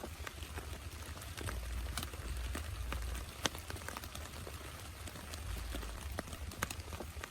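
Heavy rain falling, with many irregular drops tapping sharply on a close surface. A deep low rumble swells and fades twice.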